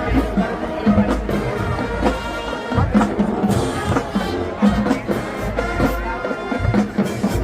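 High school marching band playing on the field: brass and drumline together, with steady regular drum hits.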